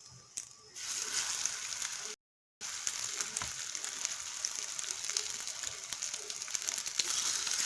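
Nems (spring rolls) deep-frying in hot oil: a dense, crackling sizzle that starts about a second in, breaks off briefly around two seconds, then carries on steadily.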